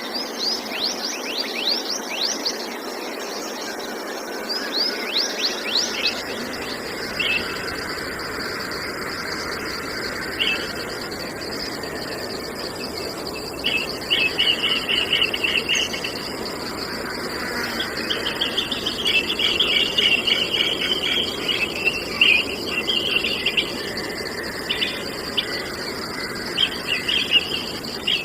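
Wild birds calling over the steady high trill of crickets: a run of quick falling whistled notes in the first few seconds, then bursts of rapid chattering song later on.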